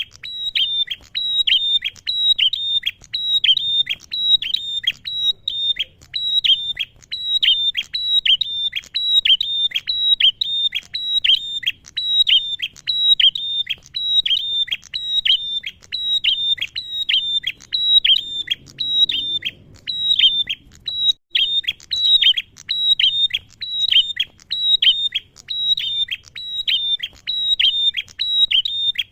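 Male prenjak (a prinia) calling: an unbroken run of short, sharp notes, each falling in pitch, a few a second.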